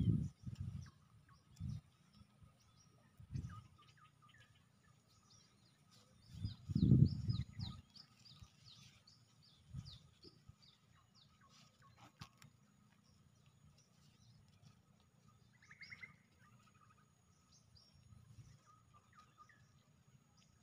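Small birds chirping, with a quick run of short high chirps a few seconds in and a lone call later on. Low rumbling bumps come and go, loudest about seven seconds in.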